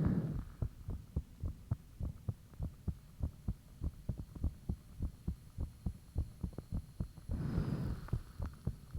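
A human heartbeat heard close up: fast, regular, thumping beats. A brief rushing noise comes in about seven and a half seconds in.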